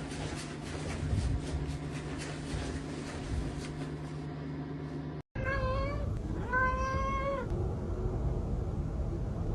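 A domestic cat meowing twice past the middle, a short meow and then a longer one. Before that there is only a steady low hum with faint clicks.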